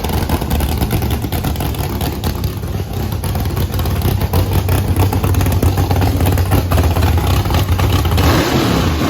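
10.3-litre big-block V8 running loudly at a rough, lumpy idle just after startup, running a little rich. Near the end its pitch shifts up and down as the revs change.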